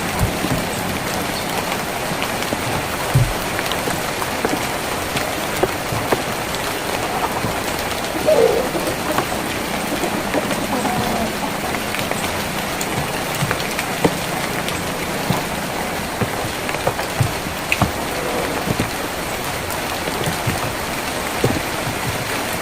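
Steady rain on a tin roof, with scattered louder drips striking the metal and a short pitched sound about eight seconds in.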